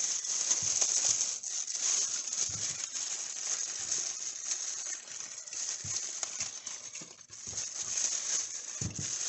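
Irregular soft knocks and clunks of an 80cc two-stroke motorized bicycle engine being picked up and handled, over a steady hiss.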